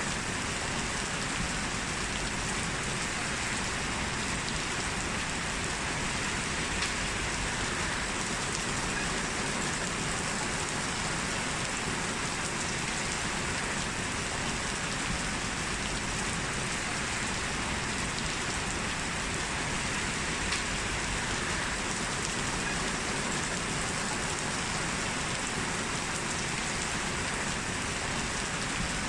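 Heavy rain falling steadily: a dense, even hiss of rain, with a couple of slightly sharper drop hits.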